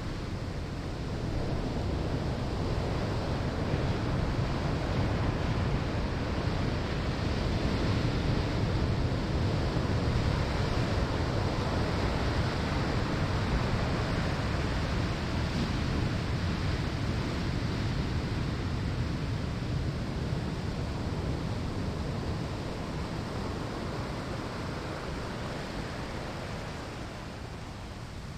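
Ocean waves breaking on a sandy shore: a steady wash of surf that swells and slowly recedes.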